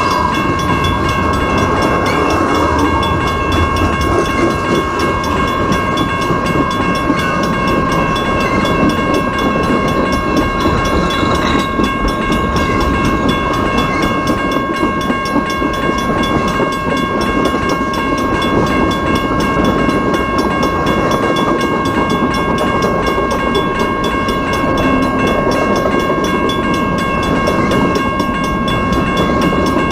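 Freight train cars rolling past steadily, wheels clattering on the rail joints, with steady high-pitched ringing tones held over the rumble.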